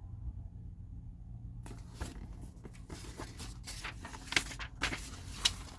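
Paper being handled: rustling and soft clicks as the pages of a thick binder-style book are shifted and turned, starting about a second and a half in, over a low steady electrical hum.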